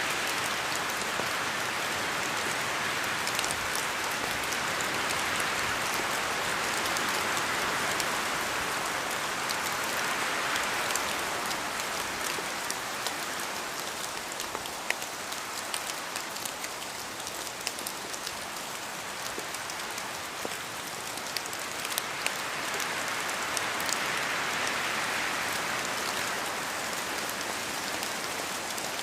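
Rain in a forest, with drops falling from the trees. A steady hiss of rain swells and eases, with scattered sharper drop ticks.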